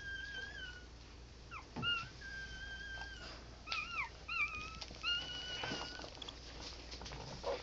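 Newborn pit bull puppies whining in a series of high thin squeals, some held steady for most of a second and others short and wavering up and down.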